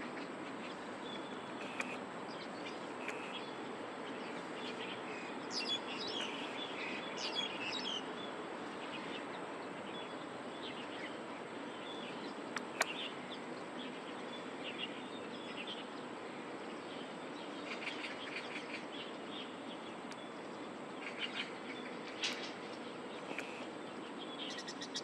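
Small birds chirping in short, scattered calls, busiest about a quarter of the way in and in the last third, over a steady background hum of distant city noise.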